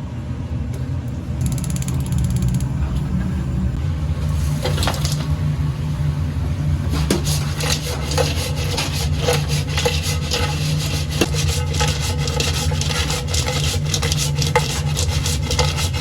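Dakgangjeong cooking sounds in a shop kitchen: a steady low machine hum, and from about seven seconds in a dense, fast run of scraping and clattering, like fried chicken being stirred and tossed in metal cookware.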